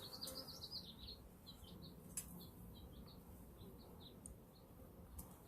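Faint bird chirping: a quick series of short, high chirps that thins out toward the end. A steady bee buzz fades out in the first half second, and there is one sharp click about two seconds in.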